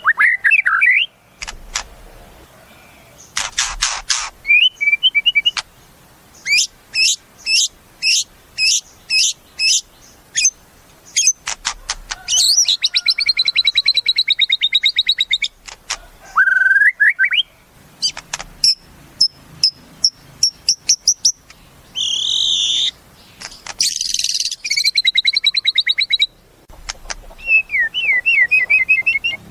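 White-rumped shama (murai batu) singing a varied song: runs of rapid repeated high notes, buzzy trilled phrases and rising whistles, broken by short pauses.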